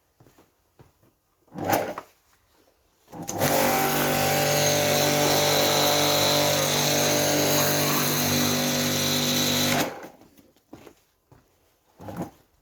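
A portable electric pressure washer's motor and pump switch on about three seconds in, run at a steady pitch with a high hiss for about six and a half seconds, then cut off. A short knock comes shortly before it starts.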